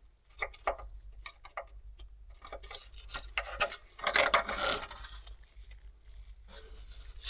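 A hand scraper scraping caked oily grease and dirt off the engine on the underside of an excavator, clearing it so the oil leak can be traced. It goes in short, irregular strokes, with a longer and louder scrape about four seconds in.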